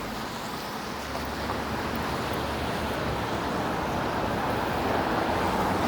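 Downtown traffic on a wet street: a steady hiss of tyres and engines that swells slightly toward the end.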